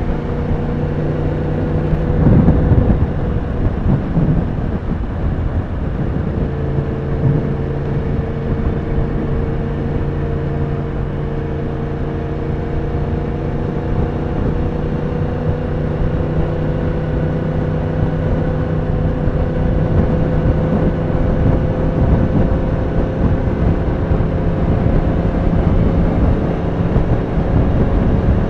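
Yamaha R1 inline-four engine running at steady revs while riding, its pitch slowly rising through most of the stretch as the bike gathers speed, over a rush of wind noise. A brief louder surge about two seconds in breaks the steady tone.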